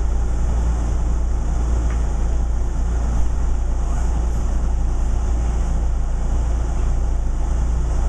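Steady low rumble of a Metro-North commuter train under way, heard from inside a passenger coach: wheels on rails and running noise.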